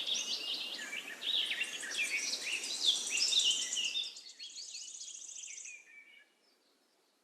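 Several birds chirping and calling in quick, overlapping notes, fading and stopping about six seconds in.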